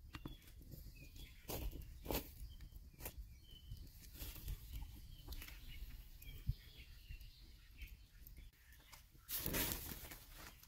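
Faint outdoor ambience with birds chirping in short, high calls scattered throughout, a few sharp clicks, and a brief louder rustle about nine and a half seconds in.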